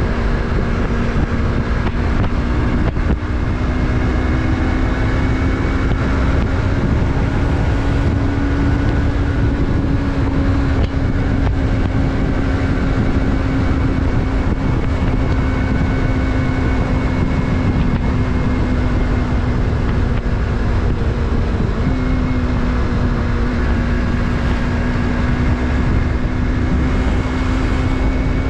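Yamaha MT-03's parallel-twin engine running at a steady cruise, its note holding nearly constant and dipping briefly about three quarters of the way through, over a low rush of wind on the microphone.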